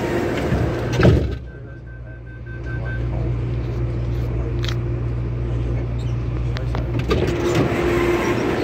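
Interior sound of an MTR Tung Chung Line CAF train: a loud bump about a second in, a rapid series of high beeps for about a second and a half, then the steady hum and rumble of the train.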